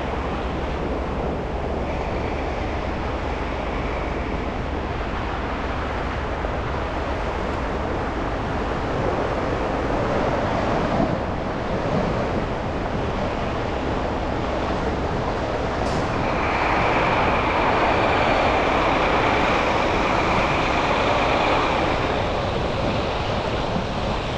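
A car driving through city streets with steady road and tyre noise and passing traffic. About two-thirds of the way in, a steady high whine joins for several seconds and the noise gets a little louder.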